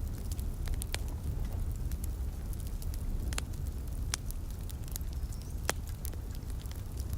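Wood fire in a fireplace crackling, with scattered sharp pops at irregular intervals over a steady low rumble.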